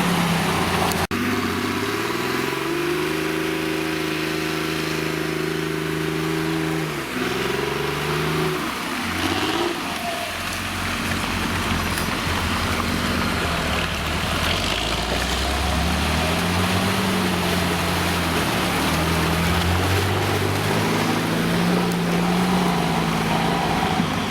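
Off-road vehicle engine running under load, its pitch rising and falling as the throttle changes, over rough tyre and chassis noise. There is a sharp click about a second in.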